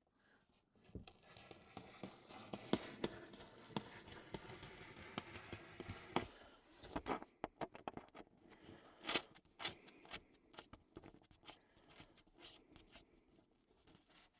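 Faint scraping and rubbing on a styrofoam board as a line is transferred onto it: a continuous scratchy stroke for about five seconds, then a string of short separate scrapes and clicks.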